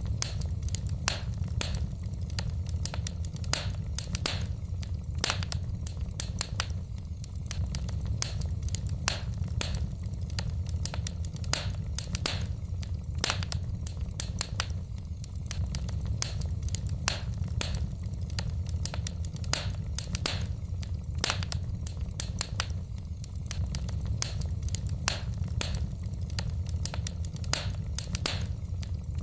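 Wood fire in a fireplace burning with a steady low rumble and frequent irregular sharp crackles and pops of the burning logs.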